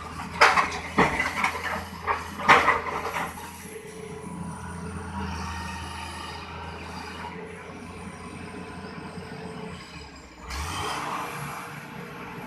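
Heavy diesel engine running steadily, with three sharp loud knocks in the first few seconds and a sudden hiss starting near the end.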